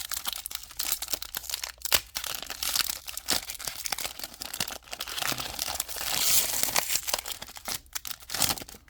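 A Pokémon TCG booster pack's foil wrapper being torn open and crinkled by hand: a dense run of crackles and rips that stops near the end.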